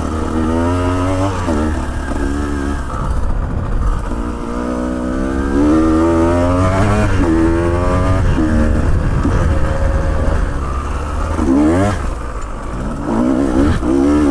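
Motorbike engine revving up and falling back again and again as it works up a steep, rough track, over a steady low rumble.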